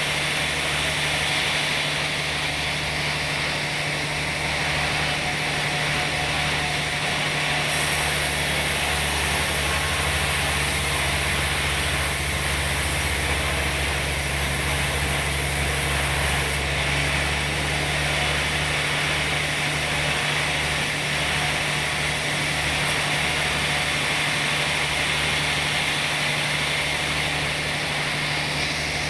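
Sawmill machinery running with a steady, loud motor drone and a dense high hiss. The hiss grows fuller for several seconds in the middle, then eases back.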